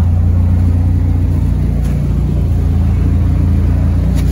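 Folkrace race car's engine idling steadily close by, a loud, even low hum.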